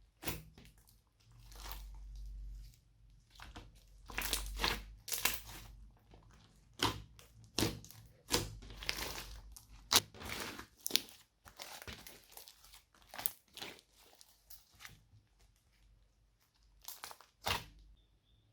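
Slime being worked by hand, with irregular sticky crackles, pops and crunches that stop shortly before the end.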